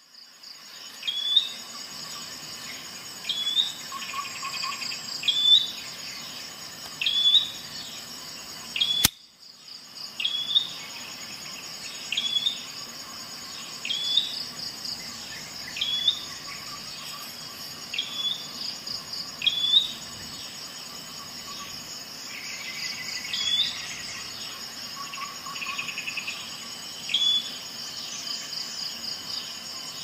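A bird repeating a short upward-hooked chirp about every second and a half over a steady high insect trill.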